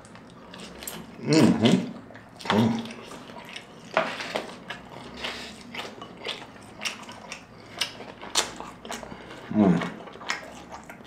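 Close-miked wet chewing of a consommé-soaked birria taco: many short, sharp mouth clicks and smacks. There are a few short hums of enjoyment, and some liquid sounds as the taco is dipped back into the consommé.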